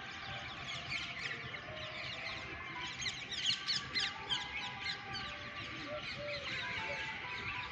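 Many small birds chirping at once in a dense, overlapping chorus of quick high chirps, busiest about three to four seconds in.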